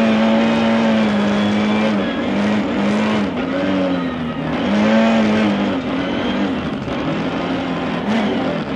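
Lada 21074 rally car's four-cylinder engine, heard from inside the cabin, running at high revs at a steady pitch, then, about two seconds in, dropping and swinging up and down again and again as the driver lifts off and accelerates on the stage.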